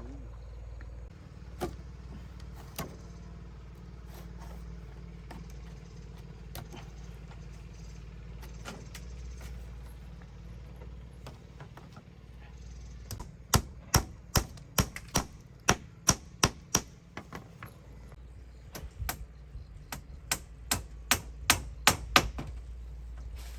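Hand-tool blows striking repeatedly: a few scattered knocks at first, then a quick run of sharp strikes at about two to three a second from about halfway in, a short pause, and a second run near the end.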